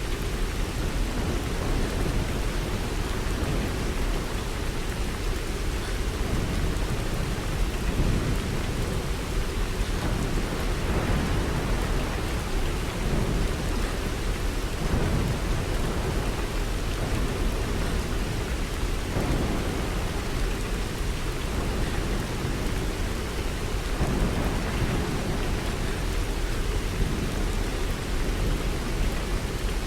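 Steady rain falling as an even hiss, with a low rumble underneath that swells and eases every few seconds.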